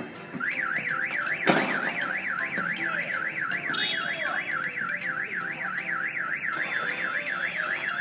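Electronic alarm siren warbling rapidly up and down, about four to five sweeps a second, starting about half a second in, with a sharp bang about a second and a half in.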